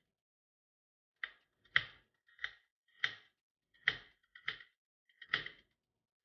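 Kitchen knife chopping vegetables on a cutting board: about seven separate, evenly paced strokes, a little over one a second.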